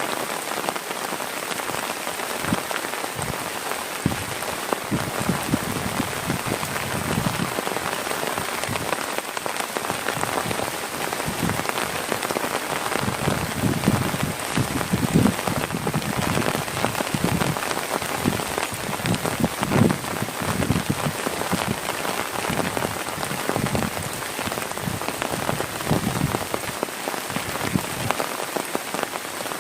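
Heavy rain falling steadily, with many irregular low drip knocks from larger drops, which come more thickly in the middle.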